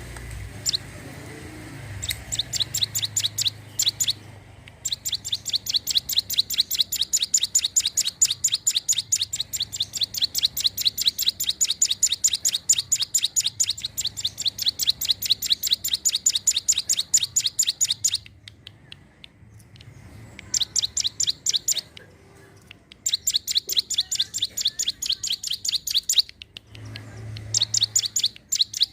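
Ciblek gunung (a prinia) singing: long, rapid trains of sharp, high chirps at several a second. The trains break off for a second or two a few times.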